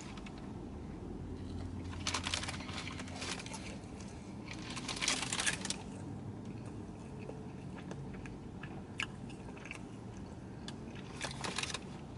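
Close-up eating sounds: a person biting and chewing a McDonald's burger. There are three spells of crackly, crunchy noise, about two, five and eleven seconds in.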